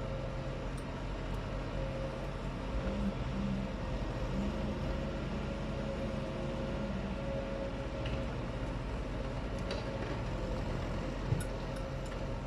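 Truck engine running steadily, a constant hum with a held tone and a few faint clicks.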